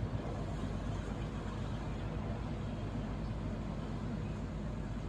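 Motor ship's engine running with a steady low drone under an even rushing noise.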